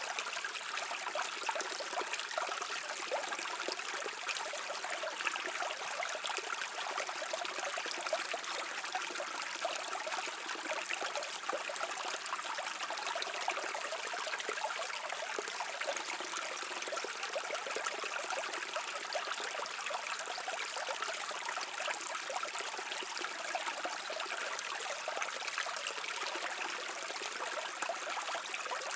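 A shallow stream flowing and babbling over rocks, a steady rush of water with fine trickling and splashing detail.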